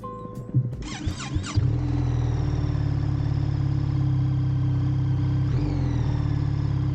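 Motorcycle engine cranked over with a brief whine about a second in, catching and then idling steadily.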